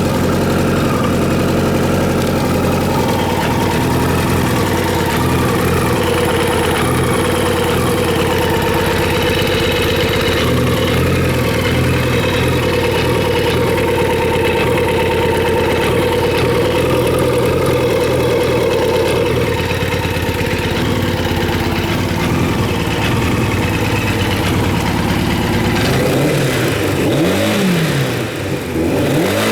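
Kawasaki Z1000J's air-cooled inline-four idling steadily, warmed up. Near the end the throttle is blipped, the revs rising and falling, picking up cleanly.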